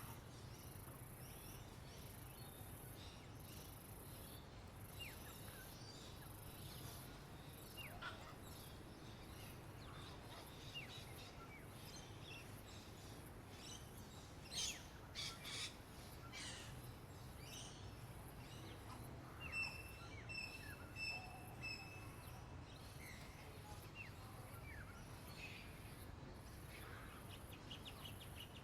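Wild songbirds chirping and calling here and there, faintly, with a few louder sharp calls about halfway through and a series of clear whistled notes a little later. Under them runs a steady low hum and a pulsing high hiss.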